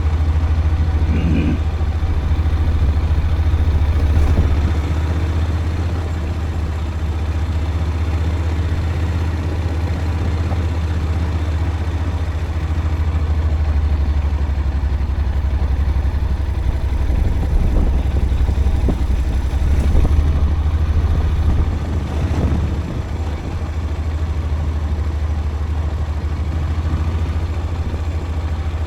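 A vehicle engine running steadily with a constant low rumble, a few light knocks and rattles over it.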